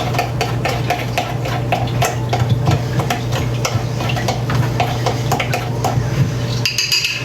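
Utensil stirring and mixing in a bowl: a quick, even run of scraping clicks, about three or four a second, that stops shortly before the end.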